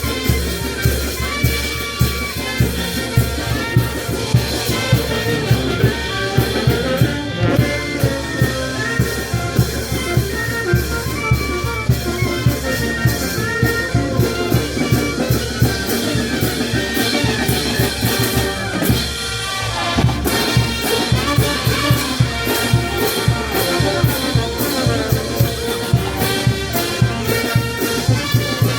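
Peruvian brass band playing: trumpets and trombones over a steady drum beat, with a short break in the playing about two-thirds of the way through.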